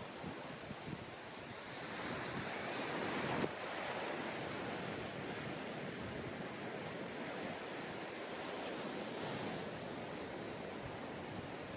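Ocean surf breaking and washing onto a beach as a steady rushing hiss; one wave swells up and peaks about three seconds in, and another rises near the end.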